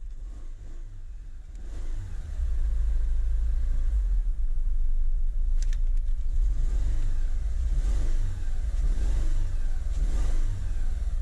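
2010 Renault Megane's 1.6 16-valve petrol engine running, then revved up and down several times from about two seconds in. The engine has a misfire on cylinder 4.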